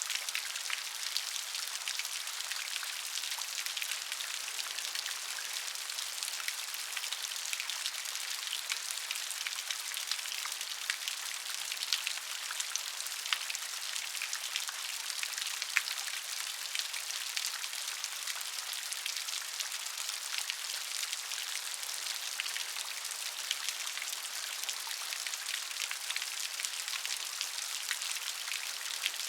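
Steady rain, a dense patter of raindrops ticking on a surface with a hiss behind them.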